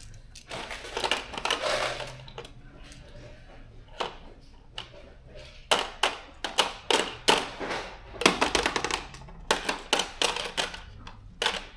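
Small metal fasteners, bolts and nuts, clinking and rattling as they are handled and dropped into the compartments of a bolt kit case. The clicks come in quick clusters, thickening over the second half.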